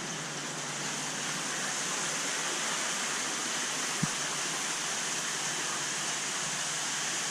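Steady rush of water running through a large aquarium's filtration system, with one faint click about four seconds in.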